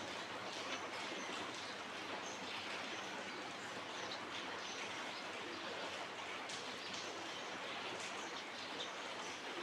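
Many short bird chirps and ticks scattered over a steady hiss-like background noise.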